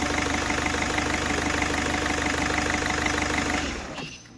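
Freshly overhauled Ford Figo engine idling steadily, then switched off near the end and dying away within about half a second. The idle is called smooth, with no blow-by from the crankcase.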